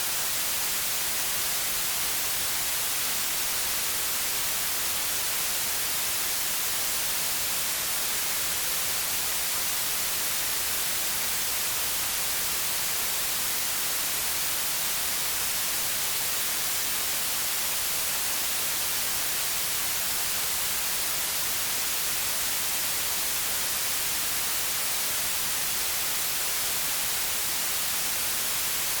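Steady electronic white noise: an even, unchanging hiss, brightest in the highs.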